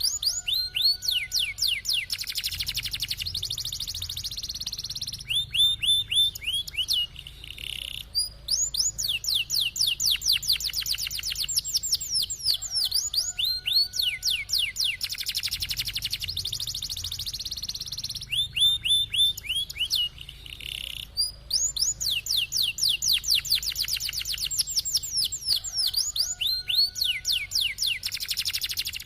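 Domestic canary singing in long rolling trills: rapid series of high, falling notes, several a second, alternating with steadier buzzy stretches, with short breaks about 8 and 21 seconds in.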